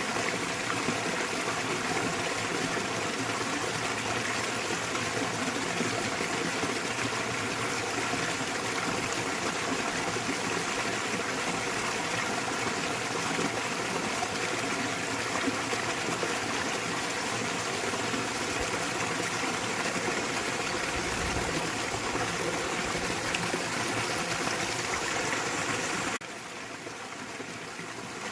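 Small waterfall splashing into a mountain stream: a steady rush of falling water. It drops suddenly quieter about two seconds before the end.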